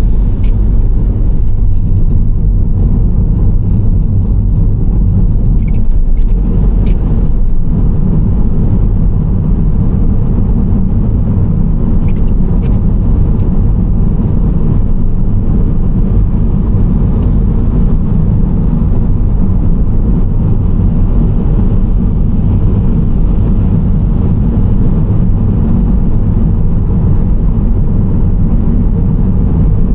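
Nissan Serena C25 minivan driving at a steady pace: a steady low rumble of engine and tyre road noise, with a few faint clicks in the first half.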